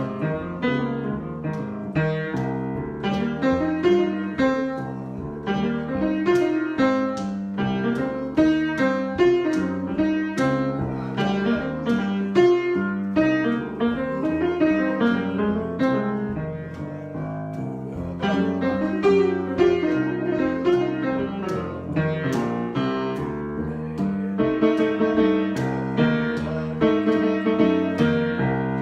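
Solo piano improvisation: a continuous flow of chords and melody notes, with no pauses.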